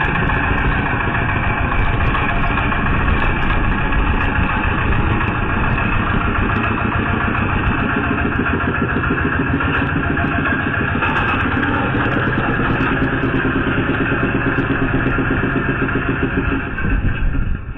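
A vehicle engine running steadily and loudly, with a pitched engine tone showing more plainly in the second half.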